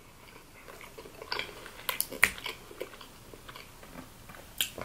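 Close-miked chewing of mochi ice cream: soft wet mouth clicks and smacks, with a few sharper ones about two seconds in and another near the end.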